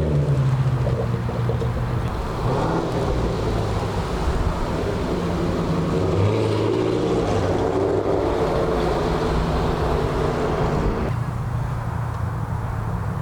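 Car engines and exhausts of cars pulling out and driving past, their pitch rising and falling as they rev. The sound thins out about eleven seconds in.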